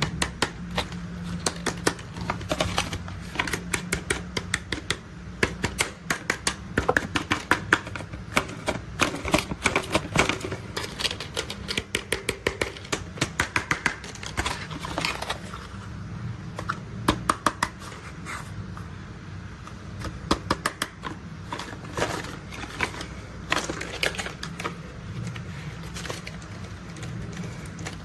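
Hard plastic toy construction vehicles being handled, giving quick irregular runs of sharp clicks and clacks, sparser for a few seconds past the middle, over a low steady hum.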